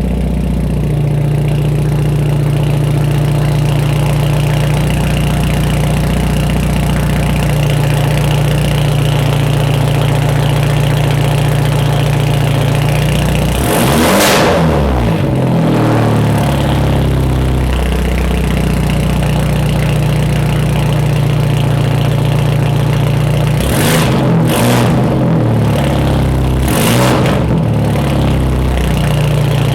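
Exhaust note of a 2013 Hyundai Genesis Coupe 2.0T's turbocharged four-cylinder through a 3-inch single-exit catless exhaust. It idles steadily, is revved once about halfway through, then blipped several times in quick succession near the end.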